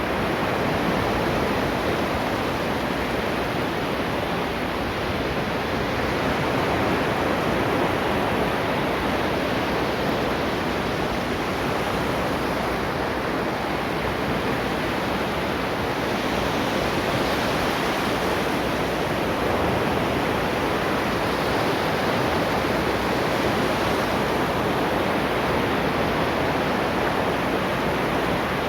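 Ocean waves washing onto a shore: a steady surf roar with gentle slow swells.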